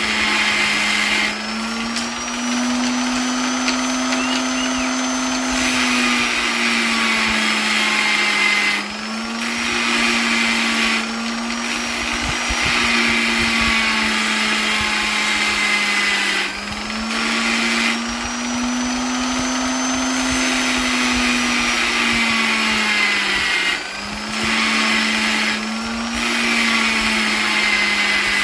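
Electric polisher running continuously, its motor hum shifting slightly up and down in pitch every few seconds, with short dips in the high whirring hiss now and then.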